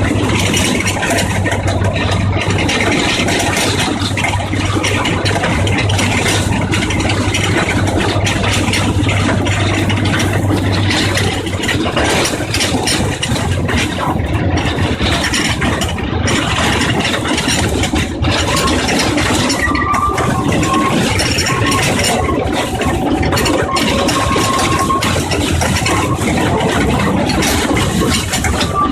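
Engine of a forest-railway trolley train running, with the cars rattling and clattering steadily along the track. A steady low hum is present at first and fades out after about ten seconds.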